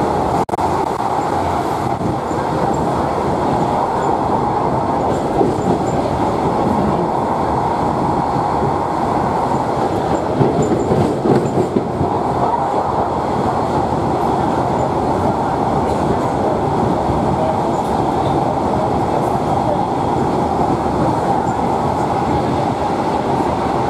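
Inside a Class 142 'Pacer' diesel multiple unit running at speed: the steady running noise of wheels on rail and the underfloor diesel engine, briefly a little louder and rougher about ten seconds in.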